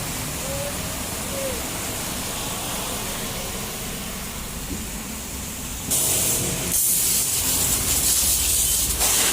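Steady background hum, then about six seconds in a high-pressure water spray from a car-wash pressure washer starts suddenly and hisses loudly, with a brief break shortly after it starts.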